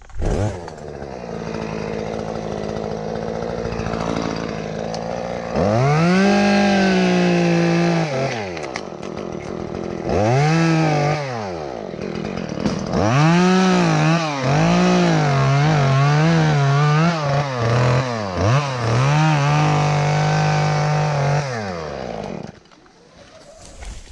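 Chainsaw idling, then revved up again and again as it cuts through a limb, the pitch dropping back between bursts. It stops suddenly about two seconds before the end.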